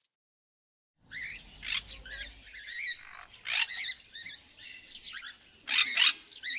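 A brief silence, then a run of high, warbling chirps and squawks from an animal, coming at irregular intervals.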